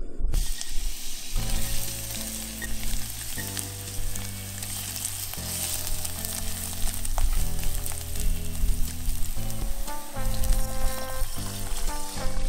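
Chopped ginger and dried mushroom slices sizzling in hot oil in a saucepan while being stirred with a spatula. The sizzle starts suddenly just after the start.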